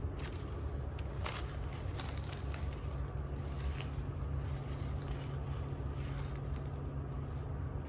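Wind buffeting the microphone, a steady low rumble, with a few faint brief rustles about one and two seconds in.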